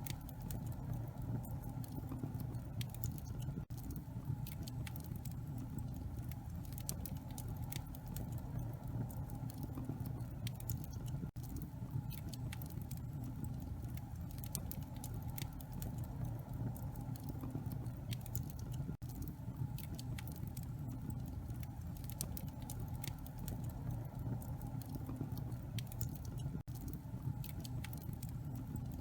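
Wood fire burning in a fireplace: a steady stream of small crackles and pops over a constant low rumble.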